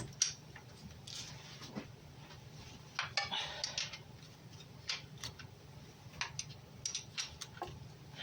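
Scattered metallic clicks and clinks of tools and timing-chain parts being handled while the chain tensioner on a VAZ-21213 Niva engine is checked, with a quick cluster of clinks about three seconds in.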